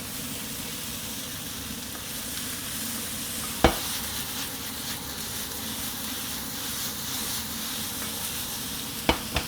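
Sliced peppers, onion and tomato sizzling steadily as they fry in a hot pan. A sharp knock sounds about a third of the way in, and two quick clicks near the end.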